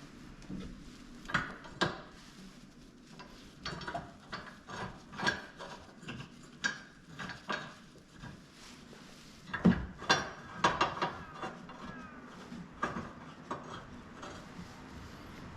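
Hand tools clinking and knocking against metal parts in irregular clicks, with a loud cluster of knocks about ten seconds in.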